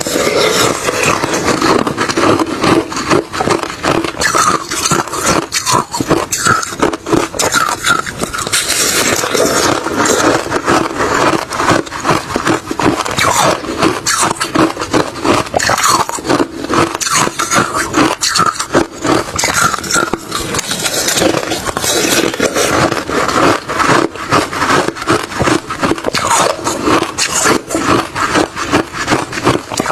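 A person chewing refrozen crushed ice mixed with shaved ice close to the microphone: a steady run of rapid, crackly crunches.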